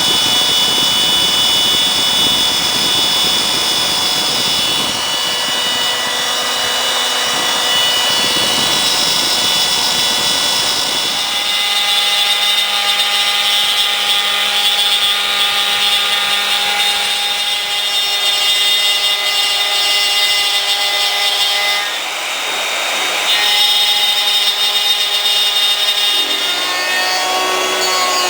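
CNC router milling aluminium: the spindle runs with a steady high whine under the cut, while lower machine tones change several times as the feed shifts, and pitches glide upward near the end.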